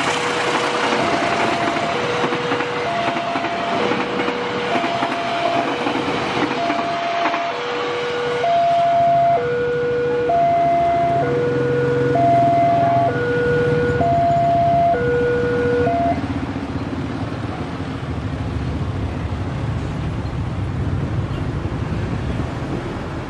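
Railway level-crossing warning signal sounding an electronic two-tone alternation, low and high notes switching about once a second, which cuts off about two-thirds of the way through. Under it, a train passing through the crossing fades away, then road traffic idles and moves off.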